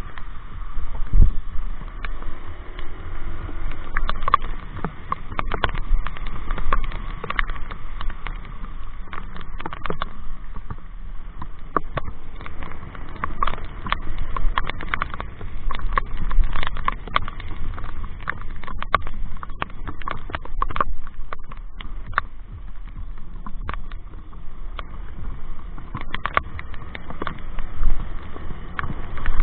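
Raindrops striking the microphone as many irregular sharp taps, over a steady low rumble of a motorcycle ride in heavy rain.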